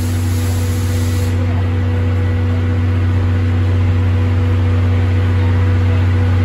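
Steady low mechanical hum of a train at a station platform, with a high hiss that cuts off about a second in.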